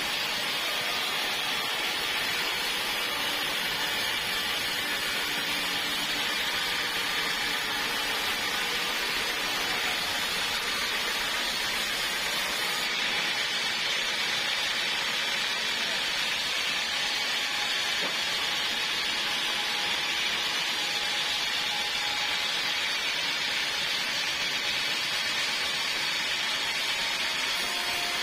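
Portable sawmill running steadily as its blade cuts through a log, an even hiss with no breaks.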